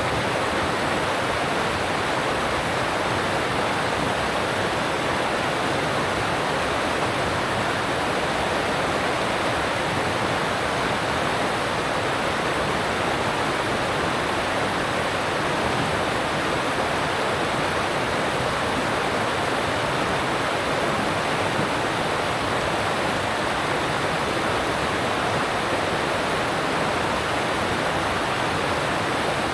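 Alpine stream rushing over rocks, a steady, even rush of water with no breaks.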